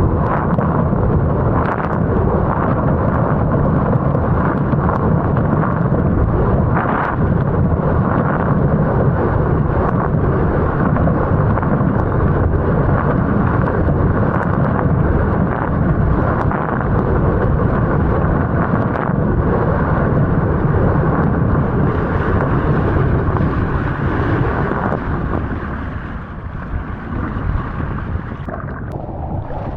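Heavy wind noise buffeting the microphone of a camera riding along on a wing foil, a steady loud rumble that eases a few seconds before the end.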